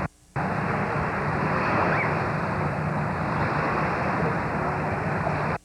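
Steady rushing outdoor noise with a low rumble, broken by a brief silence just after the start and again near the end.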